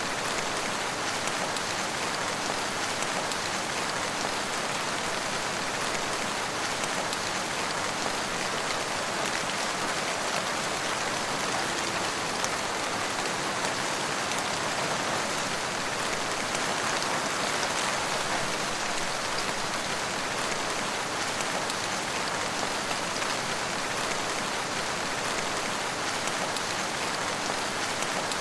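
Steady rain falling, an even hiss of many drops striking a surface with no thunder.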